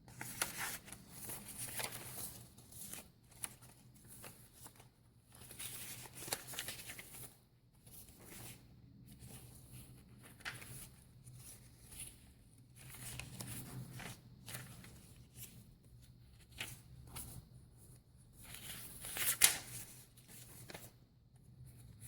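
Paper pages, cards and tags of a handmade junk journal rustling and flapping as pages are turned and pocket inserts handled, in irregular bursts with a louder rustle near the end.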